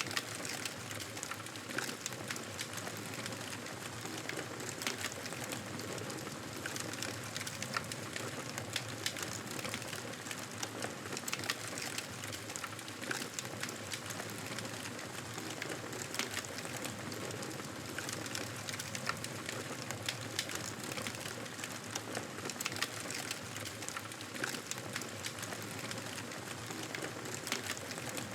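Wood fire in a fireplace crackling: frequent sharp pops and snaps over a steady hiss.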